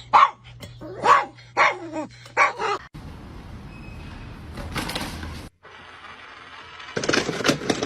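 A dog barking repeatedly, about two barks a second, for roughly the first three seconds, then it cuts off abruptly to a steady noisy hiss.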